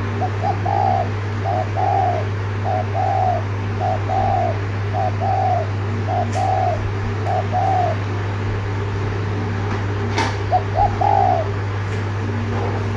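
Spotted dove giving its quick repeated 'gù' coo: seven short-then-long two-note coos about a second apart, a pause of a couple of seconds, then one more coo near the end, over a steady low hum.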